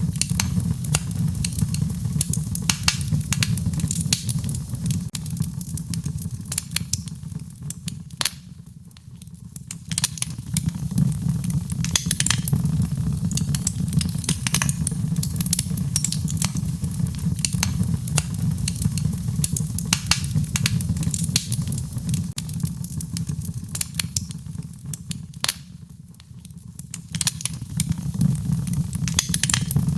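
Fire burning in a fireplace: a steady low rumble of flames with many sharp crackles and pops. It goes briefly quieter twice, about nine seconds in and again near the end.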